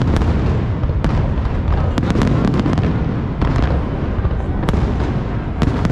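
Large fireworks display: a continuous low rumble of shell bursts with many sharp cracks and pops throughout.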